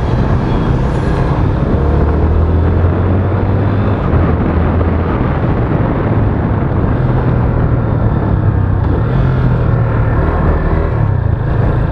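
Yamaha FZ25's single-cylinder engine running under way on the road, its pitch stepping up and down a few times, with heavy wind noise on the microphone.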